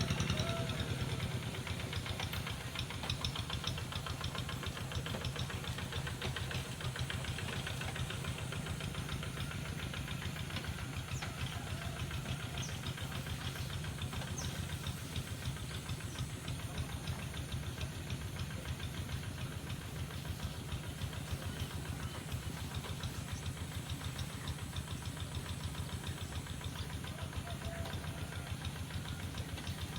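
Small engine running steadily with a rapid, even knocking beat.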